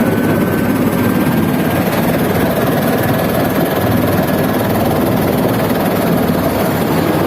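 Helicopter running, a loud steady mix of rotor and engine noise with no break.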